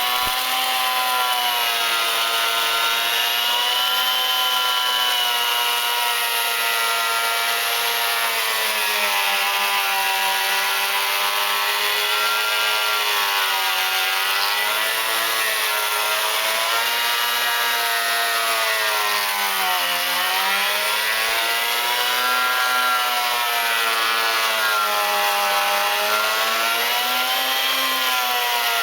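Beam planer running as it cuts along a wooden beam. Its motor's pitch sags and recovers under changing load, dipping most about twenty seconds in.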